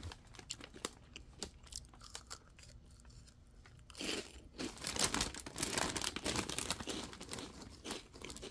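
Crunchy Funyuns onion-flavored rings being bitten and chewed, crisp crunches setting in about halfway through after a quieter start. The plastic snack bag crinkles as it is handled near the end.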